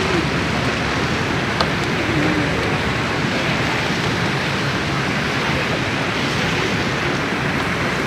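Steady rushing noise of blizzard wind, with one short click about a second and a half in.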